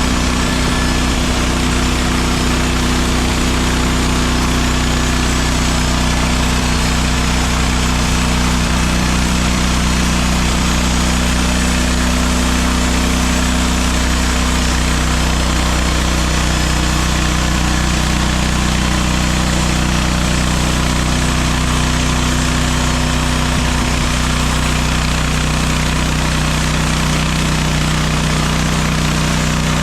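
A MechMaxx SM32 band sawmill's engine running steadily at constant speed, with no change in pitch or level.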